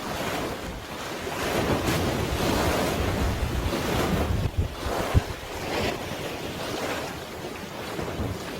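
Sea waves washing with wind buffeting the microphone: a steady rush that swells and eases every few seconds, with low rumbling bumps and one sharp knock about five seconds in.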